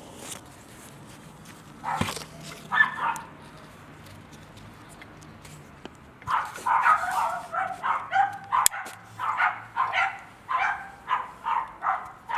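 A dog barking: a couple of barks about two seconds in, then from about halfway a steady run of barks, about two a second.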